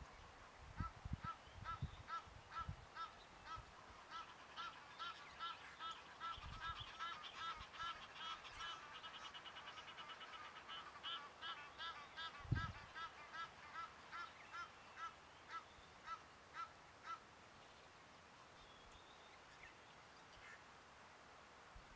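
A bird calling in a long series of short, repeated, pitched notes, about two a second, crowding into a rapid chatter midway and stopping about three quarters of the way through. A single low thump about halfway through is the loudest sound.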